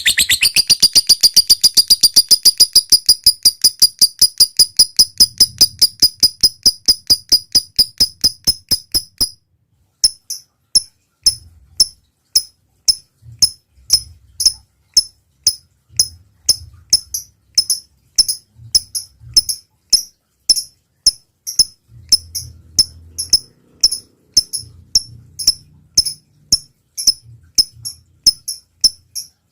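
Lovebird calling: a long fast run of sharp, high chirps, about eight a second (the 'ngekek' chatter), stops abruptly about nine seconds in, then gives way to separate sharp ticks, two or three a second (the 'ngetik' ticking).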